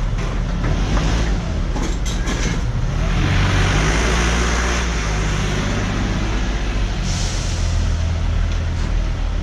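A motor vehicle's engine running steadily, with a hiss that swells about three seconds in and again about seven seconds in.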